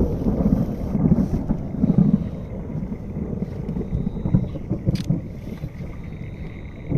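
Gusty wind buffeting the microphone in a thunderstorm, a low rumbling that swells and fades, with a sharp click about five seconds in.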